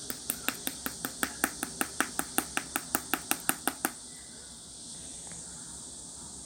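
Clear slime being pressed and worked by hand, giving a fast, even run of crisp clicks, about five or six a second, that stop about four seconds in.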